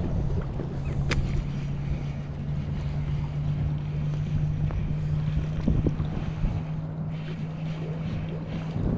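A steady low motor hum from a boat, with wind on the microphone and water noise. The hum weakens near the end, and there is a single sharp click about a second in.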